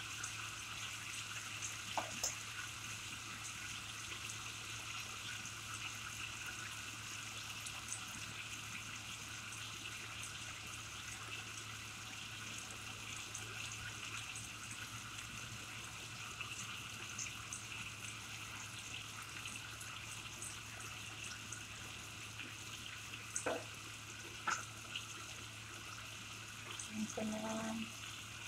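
Chicken karahi sizzling steadily in a wok on the stove, an even hiss with faint crackles over a low steady hum. A few knocks around a second or two in and near the end, and a short pitched sound just before the end.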